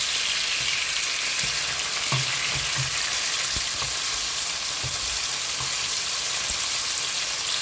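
Chicken pieces sizzling as they fry in olive oil in a pan, with scattered knocks and scrapes of a utensil stirring them.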